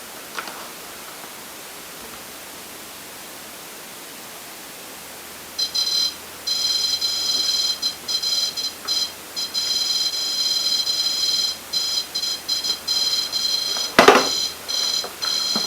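Electronic ghost-hunting proximity alarm going off: a high electronic tone starts about five and a half seconds in and keeps cutting in and out irregularly. One sharp knock is heard near the end.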